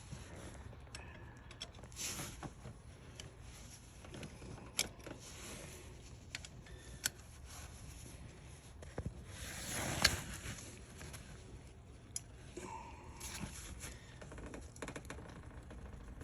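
Scattered light metallic clicks and taps from hand tools as a spark plug socket and extension are fitted down into the plug well, with one sharper click about ten seconds in.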